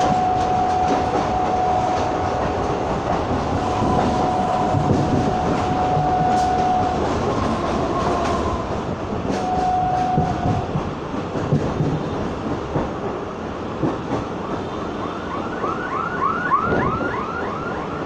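Moving Kolkata suburban electric (EMU) local train heard from inside the carriage by an open window: a steady running rumble and rattle. A steady high whine sounds through the first several seconds and again briefly about ten seconds in. In the last few seconds a rapid, repeated warbling tone joins in.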